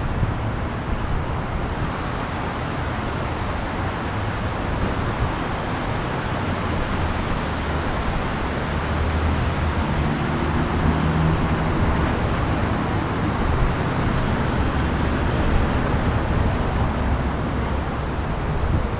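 City street traffic: a steady hiss of passing vehicles, with a motor vehicle's low engine hum swelling about halfway through.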